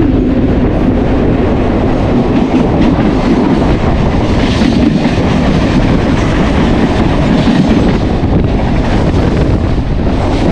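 Mumbai suburban local (EMU) train running at speed between stations, heard from on board: a steady loud rumble with the clatter of wheels on the rails.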